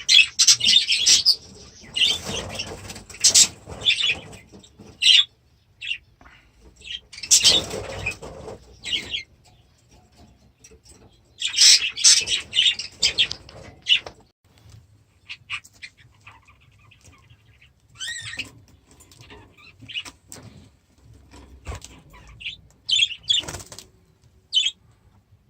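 Budgerigars calling in about seven loud, irregular bursts of high, harsh chatter, with wing flapping.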